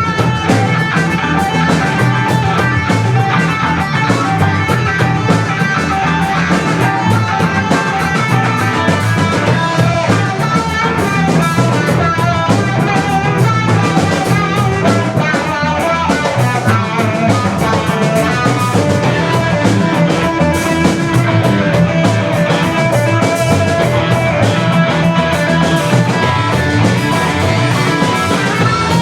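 Rock music: electric guitar playing over a drum kit, steady and loud throughout.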